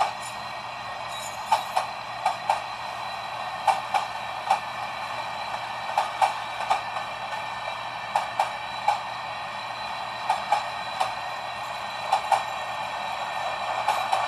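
Freight cars of a long train rolling past, their wheels clicking over a rail joint in quick pairs every second or so over a steady rolling noise.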